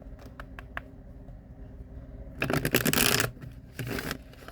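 Tarot cards being handled and shuffled: a few light clicks, then a longer burst of shuffling about two and a half seconds in and a shorter one near the end.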